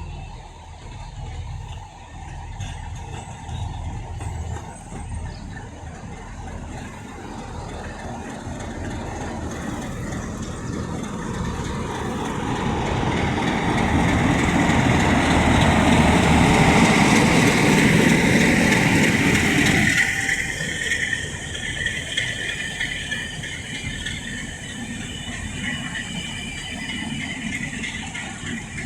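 A train moving through the station at close range, growing louder to its loudest just past halfway, then dropping away suddenly about twenty seconds in to a quieter running sound with a high whine.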